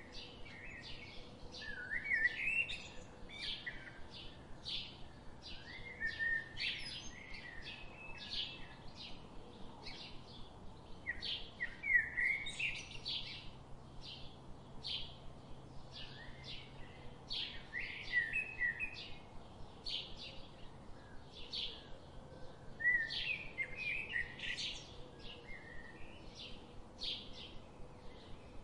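Birds chirping: a steady run of short high chirps, about two a second, with a louder warbling phrase breaking in every five seconds or so.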